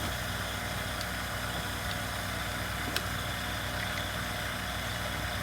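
Steady low mechanical hum, with a faint click about three seconds in.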